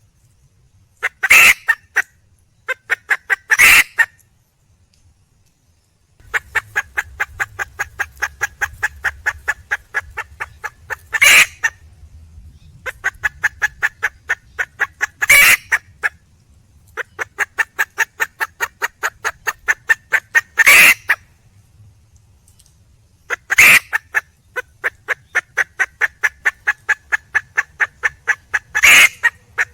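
Junglefowl hen clucking in long, rapid trains of short clucks, about five a second, broken every few seconds by a louder single call: the wild hen's call to draw a mate.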